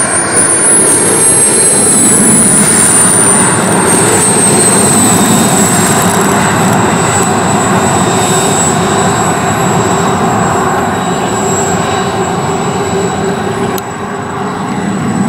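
Twin KingTech K-235 G4 model turbine jet engines of an RC Su-30SM scale jet running in flight: a steady jet rush with a high turbine whine that rises slightly, slowly falls in pitch and then holds. Briefly quieter near the end.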